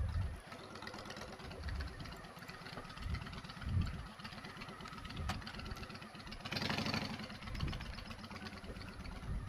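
Motorcycle engine idling, with uneven low thumps throughout and a short rush of louder noise about seven seconds in.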